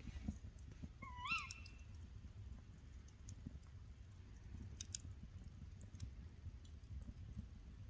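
A single short animal call about a second in: a faint cry that rises and falls twice within half a second. Sparse soft clicks are scattered through the rest.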